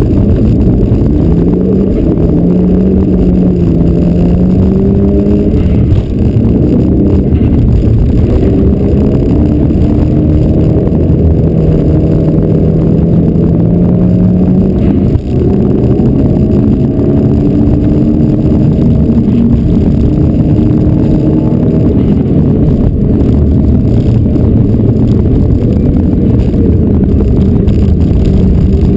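Mitsubishi Lancer Evolution rally car's turbocharged four-cylinder engine, heard loud from inside the cabin, driven hard with its pitch climbing and falling. The sound dips briefly twice, about six and fifteen seconds in.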